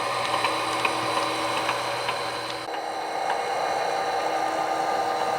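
Sound-equipped HO scale model locomotive running on the layout, its sound decoder playing a steady engine sound through a small speaker, with faint ticks. The engine sound shifts in pitch about two and a half seconds in.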